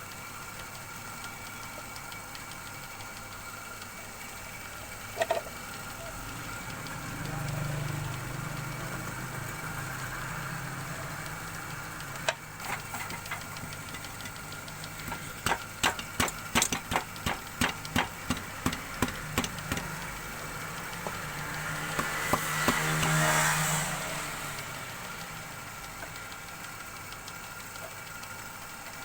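Workshop wood lathe's motor running with a steady hum. A run of sharp clicks at about two to three a second comes past the middle, and a louder swell of noise near the end.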